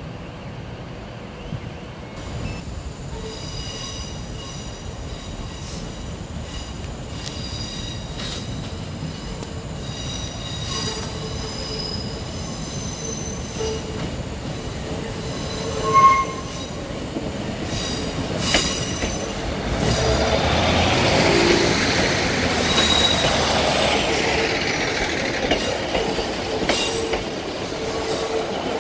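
A ScotRail Class 156 diesel multiple unit coming in around a curve. Its wheels squeal high and steadily through the first half, with one short loud high note about 16 seconds in. The train then passes close, with its diesel engine running and its wheels clicking over the rail joints.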